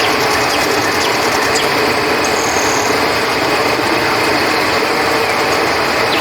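Steady rush of flowing river water, with night insects such as crickets chirping over it and a rapid high clicking trill in the first second or so.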